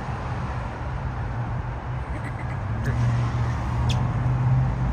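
Steady low rumble of a car's running engine and road noise, with a few brief high clicks or squeaks about two, three and four seconds in.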